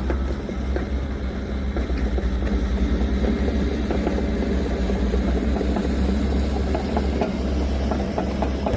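Engine of an old GMC logging truck running steadily with a deep low rumble. Scattered rattles and knocks sound over it.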